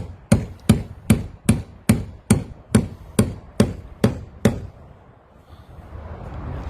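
Steady, evenly spaced hammer blows, about two and a half a second, forcing open a locked fairground ride paybox. They stop about four and a half seconds in, and a steady noise rises near the end.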